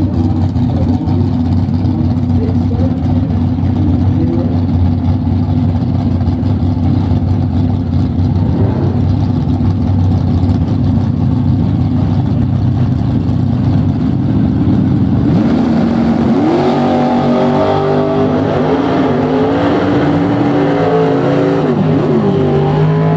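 1968 Camaro drag car's engine running at a loud, steady, deep note for about fifteen seconds. It then revs, its pitch climbing and falling several times.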